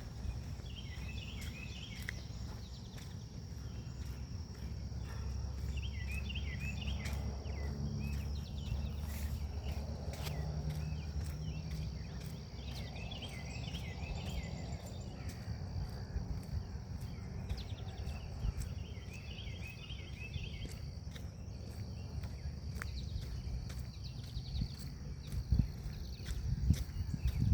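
Forest ambience: a songbird repeating short chirpy phrases every few seconds over a steady high insect drone and a low wind rumble, with footsteps growing louder near the end.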